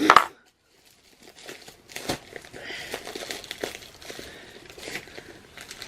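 A mailing envelope being torn open by hand: crinkling and tearing, with a sharp snap about two seconds in.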